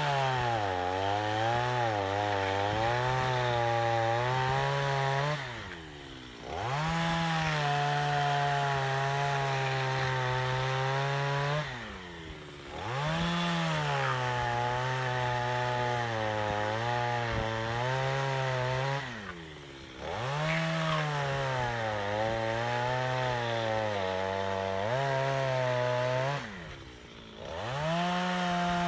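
Chainsaw cutting into a wooden log. It revs up, then drops in pitch and holds lower as the chain bites into the wood. It eases off briefly four times, about every six to seven seconds, and revs up again each time.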